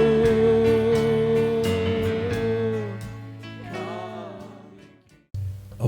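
Live gospel song ending: a singer holds the long final note over guitar accompaniment, and it all fades away about three to five seconds in. Sound starts again abruptly just before the end.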